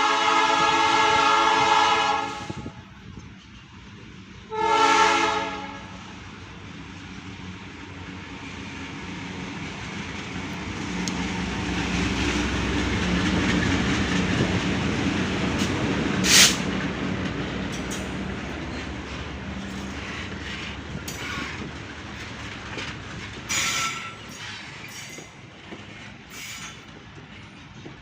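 Locomotive horn sounding one long blast, then a short one a few seconds later, followed by the train hauling a railway crane rumbling past with wheels clacking over the rails and a few sharp clanks, fading away toward the end.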